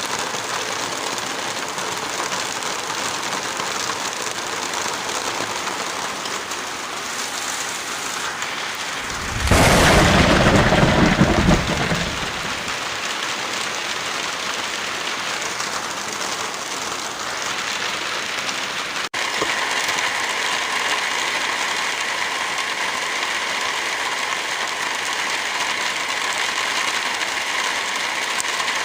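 Steady rain, with a loud rumble of thunder about nine seconds in that lasts some three seconds. Roughly two-thirds through the sound briefly cuts out and comes back slightly louder.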